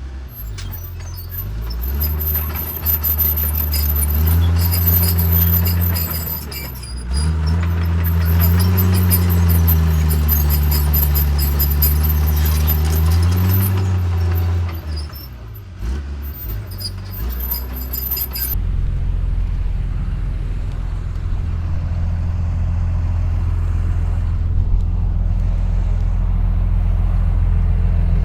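Heavy diesel engine of earth-moving machinery working under load, its pitch rising and falling several times with a thin high whine above it. About two-thirds of the way through the sound changes abruptly to a steady, lower diesel engine running.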